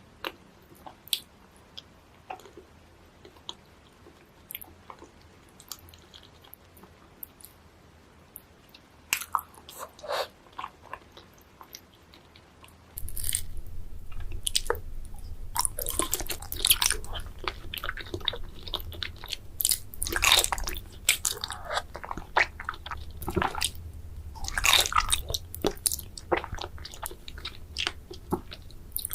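Close-miked eating of sushi: biting and chewing with wet, squishy mouth sounds and sharp smacks, sparse and soft at first. About halfway through, the sound jumps abruptly louder, with a low hum underneath and denser chewing.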